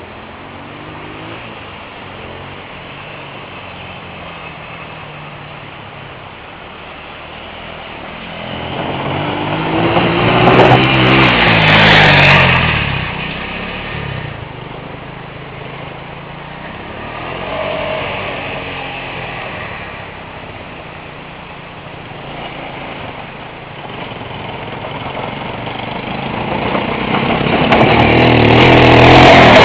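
Motorcycle engines running, with a steady engine hum that swells and rises in pitch about ten seconds in, again briefly a little later, and loudest near the end.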